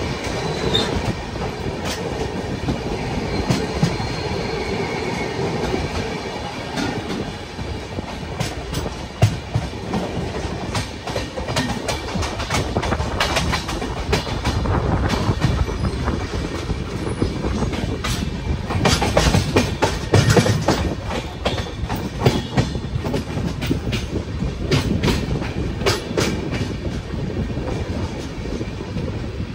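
Train running on the line, wheels clattering over rail joints over a steady rumble, with sharp clicks throughout and busier stretches of clatter midway and again about two-thirds of the way through.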